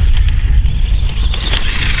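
SkyRC SR5 RC dirt bike running over dirt on its brushless motor, under a heavy, uneven low rumble.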